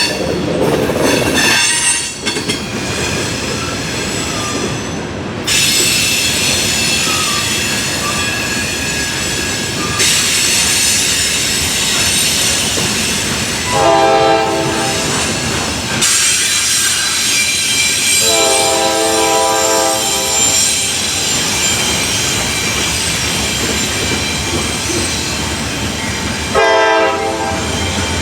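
A train passing with steel wheels squealing loudly against the rail in high, steady tones. The locomotive's horn sounds three times: short, long, then short again near the end.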